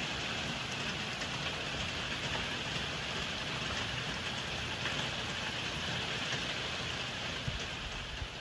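Heavy rain falling steadily: a dense, even hiss with scattered taps of drops hitting surfaces.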